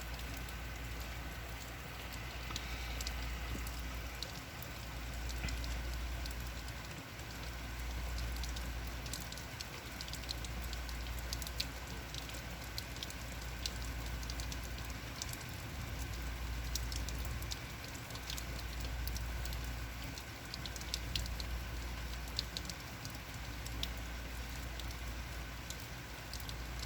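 Steady heavy rain falling, with many separate drops ticking close by. Under it is a low rumble that swells and fades every couple of seconds.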